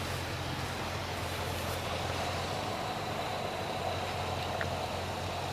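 An engine idling steadily, a low even hum, with a faint steady whine joining about two seconds in.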